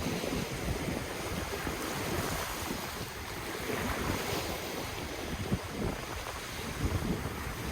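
Ocean waves washing steadily onto the shore, with wind rumbling against the microphone.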